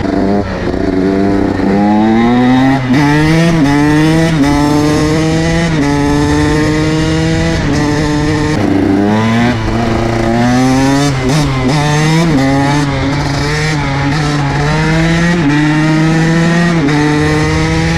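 2022 KTM SX 125 single-cylinder two-stroke motocross engine under hard acceleration, its pitch climbing steeply and dropping back at each upshift, several times over. About nine seconds in the revs fall away, then it pulls up through the gears again.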